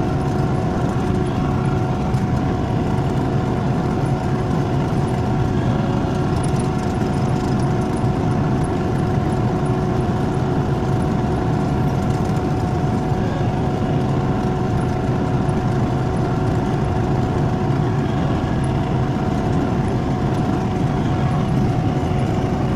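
Skid steer loader engine running steadily while the machine is driven, with a steady whine held over the engine note.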